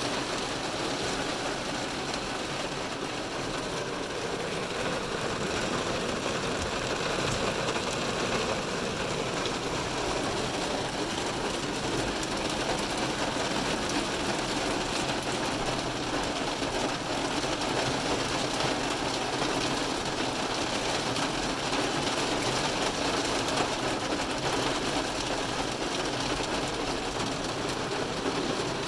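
Heavy rain falling on a car's roof and windows, heard from inside the cabin: a dense, steady patter.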